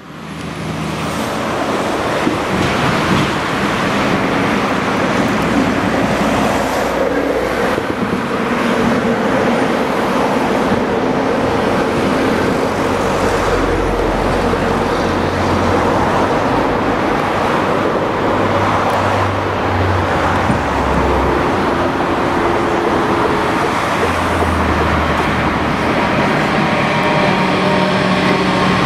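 Freight train running past at close range, a steady loud rumble of wheels and traction noise.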